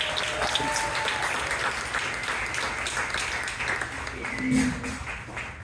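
Audience applauding, with a few voices calling out over the clapping; the applause dies down toward the end.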